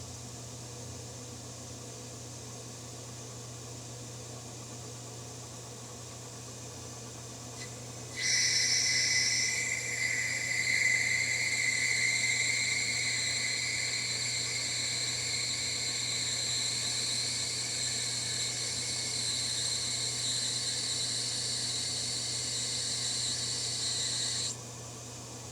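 A machine tool runs with a steady low hum. About eight seconds in, a cutter bites into 304 stainless steel, and a loud, high-pitched whine with hiss holds for about sixteen seconds before stopping suddenly as the cut ends.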